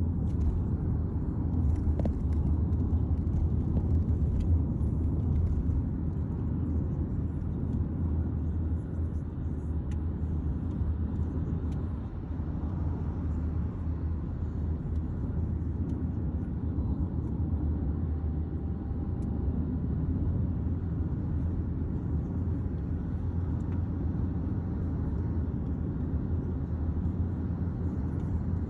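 Steady low rumble of a moving vehicle, even throughout with no breaks.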